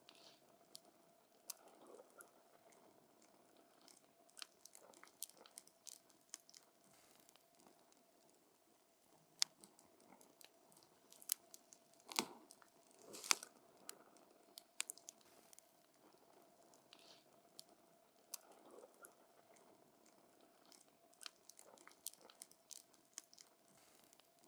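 Campfire crackling: burning wood gives off scattered sharp snaps and pops, with a few louder pops around the middle.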